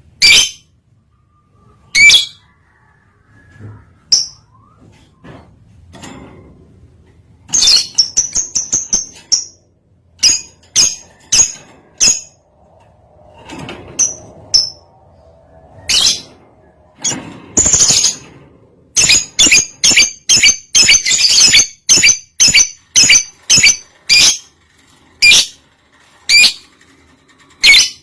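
Lovebird in breeding condition calling: sharp, high-pitched chirps, with a quick rattling trill about eight seconds in and a fast run of chirps, about three a second, between about 19 and 24 seconds.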